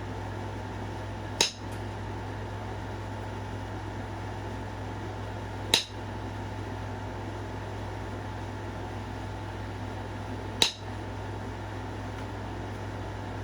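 Three sharp, single clicks of flintknapping strikes on a stone point, about four to five seconds apart, with a steady low hum underneath.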